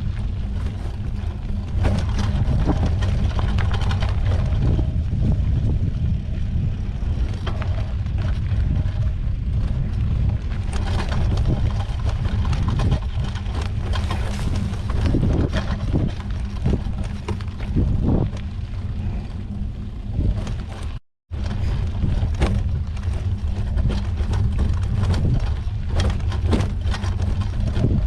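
Wind rumbling on the microphone of a mountain bike ride on a dirt trail, with frequent clicks and rattles from the bike over rough ground. The sound cuts out completely for a moment once.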